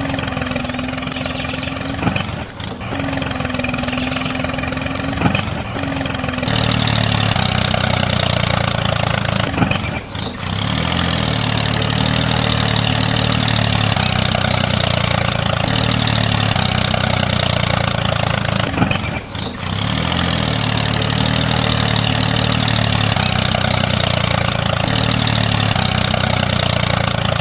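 A motor running steadily. It grows louder and fuller about six seconds in, with brief dips near ten and nineteen seconds.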